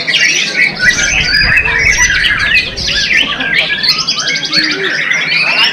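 White-rumped shama (murai batu) singing a loud, unbroken run of rapid, varied high notes and chirps.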